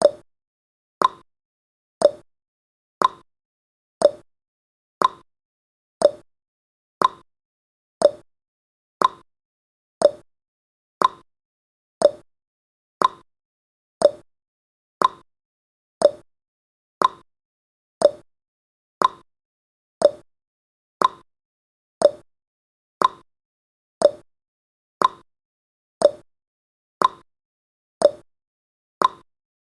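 Countdown timer's tick sound effect: one short, sharp click each second, evenly spaced, with silence between.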